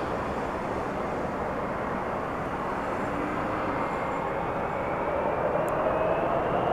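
Jet airliner engines running with a steady roar, a whine rising slowly in pitch as the sound grows louder toward the end: typical of engines spooling up for takeoff.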